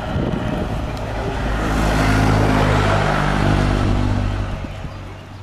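A motor vehicle passing close by: its engine note and road noise swell to a peak about two to three and a half seconds in, then fade away.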